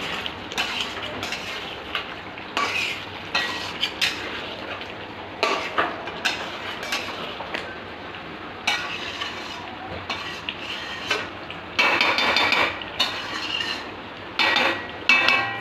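A spatula stirring chicken curry in a cooking pan, with irregular scrapes and clinks against the pan and a light sizzle underneath.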